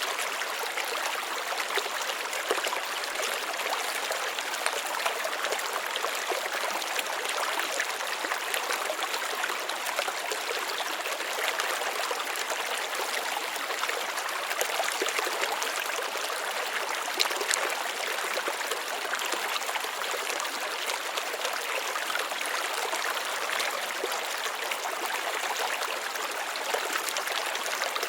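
Running water trickling steadily, with many small splashes throughout.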